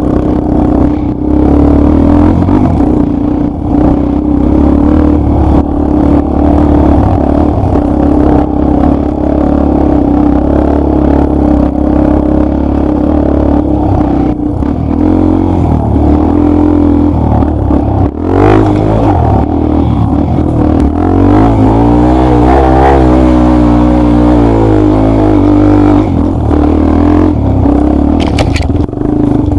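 Dirt bike engine running loudly and steadily, with the throttle rising and falling; a little past the middle the pitch dips and climbs again.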